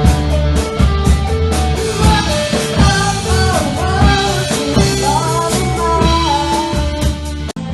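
Rock band playing live, with drums, bass, guitar and a sung melody line over them. The sound drops out for a split second near the end.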